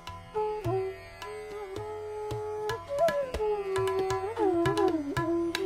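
Bansuri flute playing a slow melody in raga Bhopali, with pitch slides and bends between held notes, over tabla strokes.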